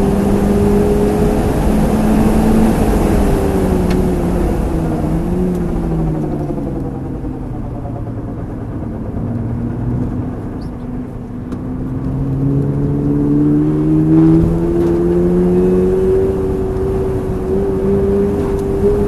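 Toyota GR86 driving, its 2.4-litre flat-four engine dropping in pitch as the car slows through the middle of the stretch, then climbing again as it picks up speed, over steady road rumble.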